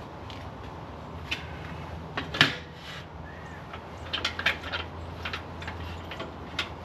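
Clinks and knocks of steel pieces being handled and set down, with one louder clank about two and a half seconds in and a quick run of taps a little later, over a steady low hum.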